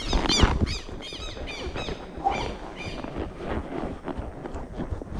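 A bird squawking in a quick series of high, arched calls over the first three seconds, over the low thuds and rustle of a horse walking on the trail.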